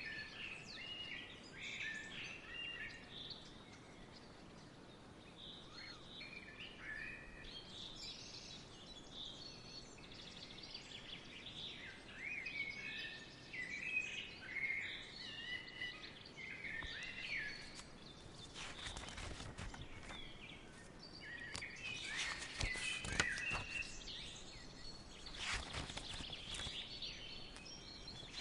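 Small songbirds chirping and twittering, many short overlapping calls over a soft outdoor background. About two-thirds of the way in, bursts of dry crackling or rustling noise join in and come and go.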